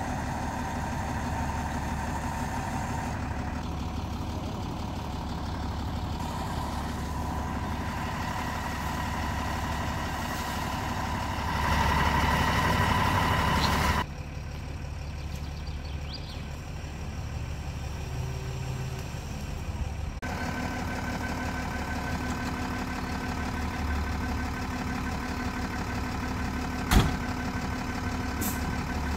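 A motor vehicle engine running steadily with a low rumble. The sound changes abruptly about 14 seconds in and again about 20 seconds in, and there is a single sharp click near the end.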